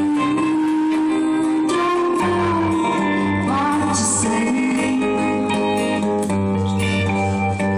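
Live pop song performance: a woman singing long held, gliding notes over guitar accompaniment with a steady low bass.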